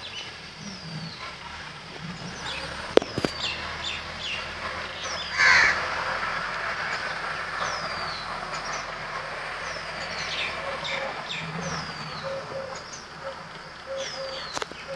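Birds calling: many short falling chirps repeated throughout, with one loud call about five and a half seconds in. A sharp click comes about three seconds in.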